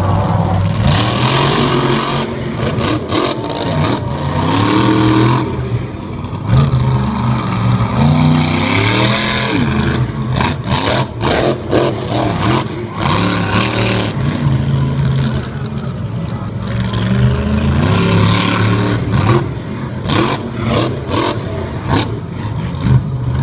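Monster truck engine revving over and over, its pitch climbing and dropping with each burst of throttle, with sharp knocks and clatters mixed in.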